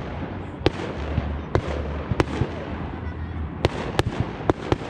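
Fireworks bursting overhead: about seven sharp bangs at uneven intervals, several close together near the end, over a steady background rumble.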